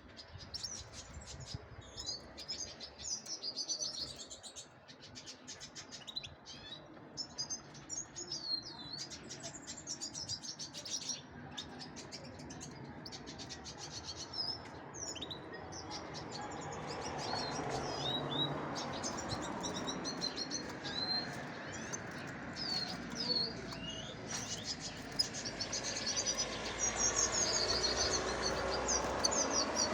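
Small birds chirping and twittering in quick, overlapping high calls. From about halfway a steady background noise grows louder underneath.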